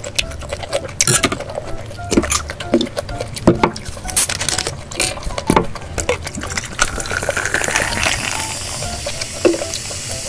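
Kitchen clatter: utensils knocking and clinking against dishes and a pan. From about seven seconds in, a steady sizzling hiss takes over.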